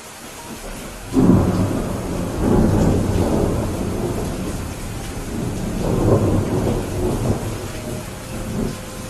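Steady rain with thunder: a clap breaks about a second in and rolls on as a low rumble in several swells, fading near the end.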